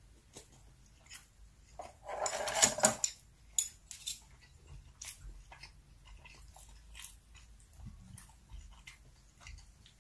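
Close-up eating sounds: a mouthful of rice and stir-fried spicy pork being chewed, with a louder mouth noise about two seconds in, then scattered wet smacking clicks.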